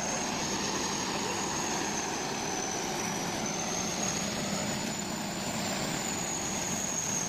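Heavy vehicle machinery running steadily, a constant engine noise with a thin high whine that wavers slightly in pitch.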